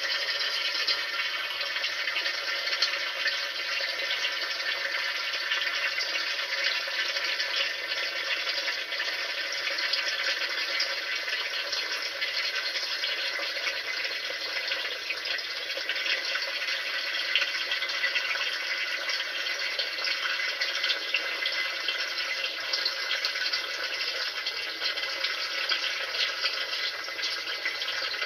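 Water running steadily, a continuous rush with no breaks or changes.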